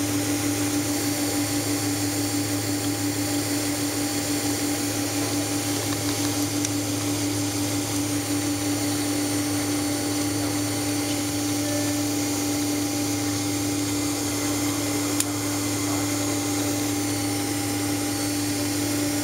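Steady cabin noise of a Boeing 767-300 taxiing: an even rush of air-conditioning and idling-engine noise with a steady hum.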